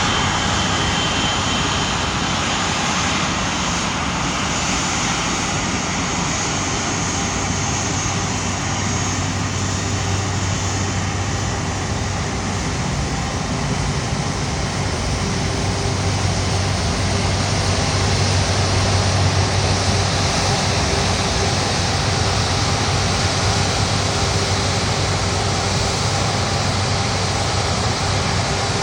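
Airbus A330-300's Rolls-Royce Trent 700 turbofan engines running at taxi power: a steady jet whine over a low hum, growing slightly louder about two-thirds of the way through.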